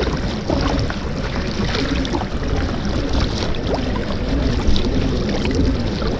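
Water splashing and gurgling against a kayak's hull, with many small clicks and knocks throughout.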